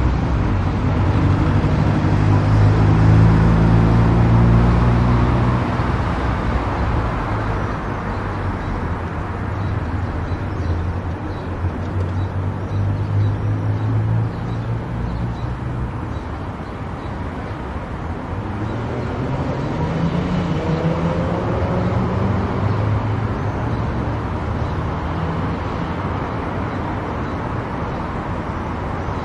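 Car driving at highway speed: steady tyre and road noise with an engine hum. The hum swells and shifts in pitch in the first few seconds and again about two-thirds of the way through.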